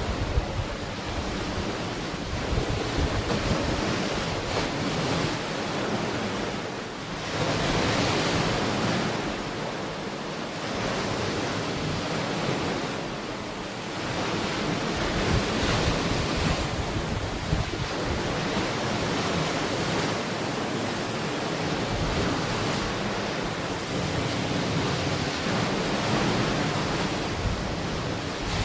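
Ocean waves breaking and washing onto a beach in a continuous surf wash that swells and ebbs every few seconds, with wind buffeting the microphone.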